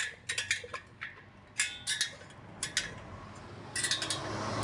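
Irregular light metallic clicks and clinks of tools working on a spoked motorcycle wheel. Near the end a steady hiss sets in and grows louder.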